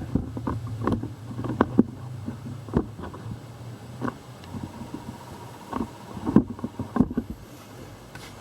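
Irregular light clicks and knocks of a hose, wiring and metal parts being handled and positioned in a car's engine bay. A steady low hum runs underneath for the first half.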